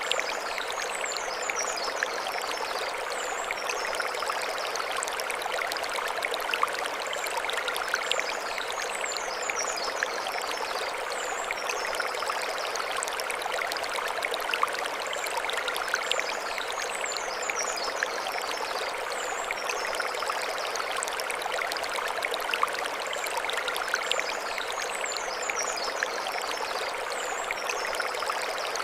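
Mountain stream running over stones, a steady, even rush of water. Short high chirps recur every few seconds above it.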